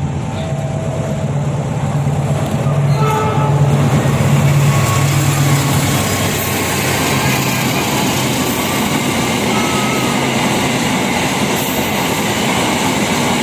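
A passing train: a low drone for the first few seconds, giving way to a loud, steady rumble of wheels on the rails.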